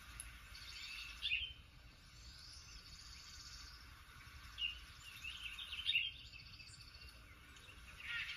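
Birdsong from a nature video playing on a TV: high trills repeating over a faint outdoor background, with short chirps about a second in and a cluster of chirps around five to six seconds in.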